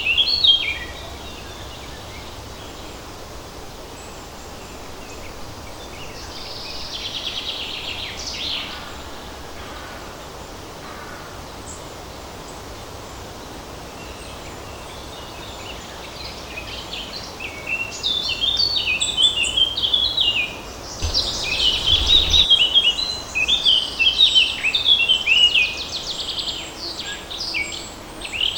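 Songbirds singing in a forest over a steady hiss of light breeze. Short chirpy phrases open, a buzzy trill comes in around a quarter of the way through, and from about two-thirds through a bird sings a long, fast run of chirping phrases.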